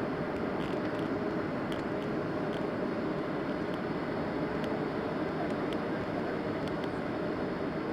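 Steady in-flight cabin noise of a Boeing 737-600: a continuous rush of airflow with the engines' drone beneath it, during the descent to land.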